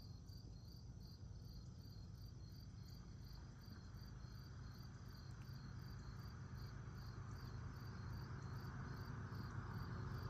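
Insects chirping in a steady, regular pulse, with the low rumble of an approaching Norfolk Southern freight train growing gradually louder toward the end.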